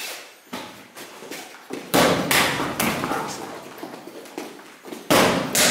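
Strikes landing on a BOB torso training dummy: a string of thuds, some light and two hard ones, about two seconds in and about five seconds in.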